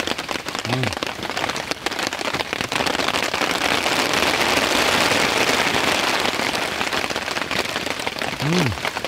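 Rain falling steadily, with many individual drops pattering, growing heavier for a few seconds in the middle. A person gives a short low murmur twice, about a second in and near the end.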